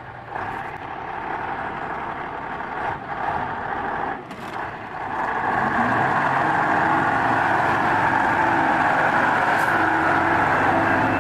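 A heavy vehicle's engine running, with a few faint knocks early on. It grows louder about five seconds in and then holds steady.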